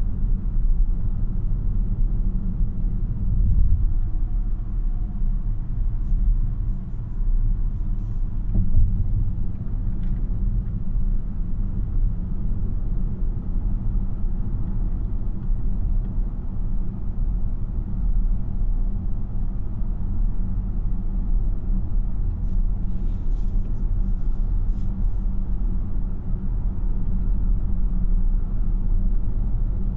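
Steady low road rumble inside the cabin of a 2026 Tesla Model Y AWD on the move: tyre and road noise without any engine note, the car being electric.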